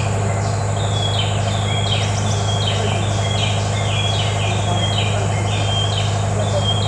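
An animal calling over and over in an even rhythm, about two short high calls a second, over a steady low hum.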